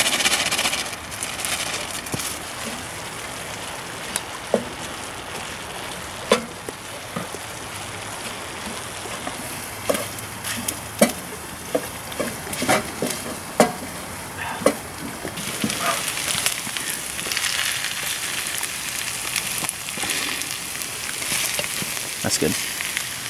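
Food sizzling in a pan on a wood stove, louder as pre-cooked rice is tipped in. A run of sharp clicks and taps comes through the middle.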